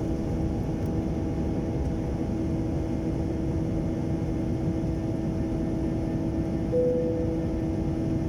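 Jet airliner cabin noise: a steady low rumble of engines and airflow with a constant hum running through it. A single brief higher tone sounds about seven seconds in.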